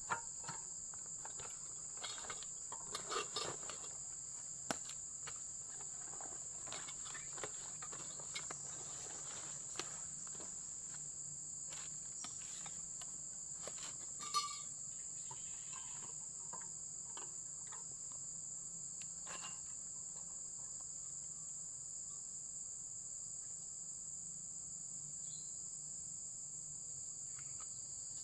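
A steady, high-pitched chorus of insects such as crickets, with scattered light clicks and knocks, mostly in the first half.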